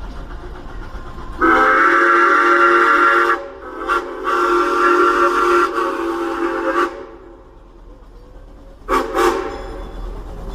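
Steam locomotive's chime whistle sounding several blasts, several notes at once: a long blast, a brief toot, another long blast, then a short blast near the end, over the low rumble of the train running.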